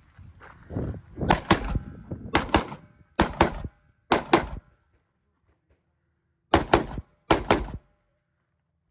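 Gunshots fired in double taps: six quick pairs of shots, four pairs in steady succession, then a pause of about two seconds before two more pairs.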